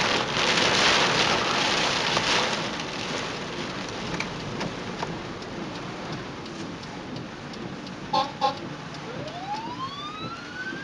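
Heavy rain hissing, loudest for the first couple of seconds and then easing. Two short beeps come about eight seconds in, and near the end a siren starts up, rising steadily in pitch.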